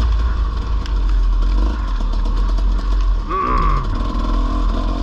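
Dirt bike running along a trail, with a steady low rumble and continuous fine mechanical rattling. A short pitched call sounds about three and a half seconds in.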